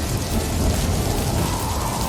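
A snowstorm buffeting a moving car: a steady hiss of wind and driven snow over a low rumble. A faint steady hum comes in near the end.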